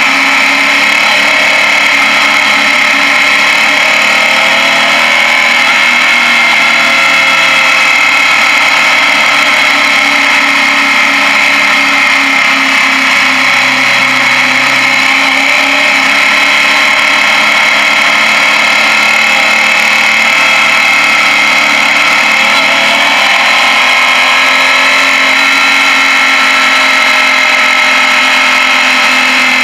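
Suzuki Gladius V-twin motorcycle engine running while riding along, heard from the rider's helmet camera, loud and steady, its pitch rising and falling gently as the throttle changes.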